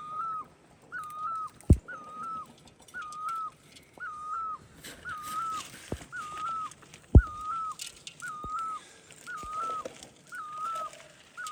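A bird repeating a short whistled note about once a second, each note level and then dipping at the end. A few sharp knocks sound over it.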